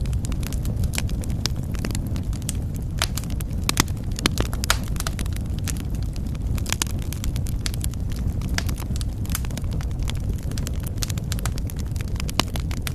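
Wood fire crackling in a fireplace: irregular sharp pops and snaps over a steady low rumble of the flames, with a few louder pops about four seconds in.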